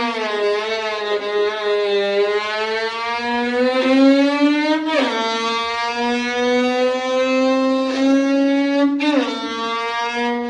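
Violin imitating a car engine accelerating through the gears. A low bowed tone slides slowly upward in pitch, drops suddenly twice like an upshift, and climbs again after each drop.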